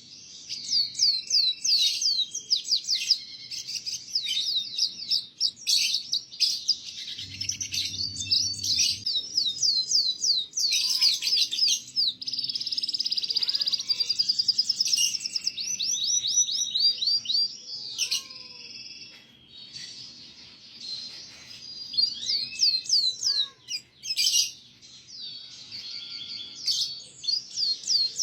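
Domestic canary singing a long, rapid song of fast repeated trills and chirps with short breaks: a canary tutor song of the kind played to teach young canaries. A brief low rumble comes about seven seconds in.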